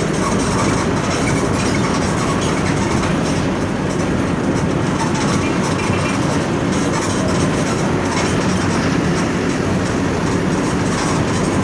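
Mercedes-Benz OF 1722M bus's OM 924LA 4.8-litre four-cylinder diesel engine running steadily, with light rattling over it.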